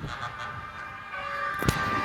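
Truck air horns sounding a held multi-tone blast that starts about a second in, with a single sharp knock shortly after.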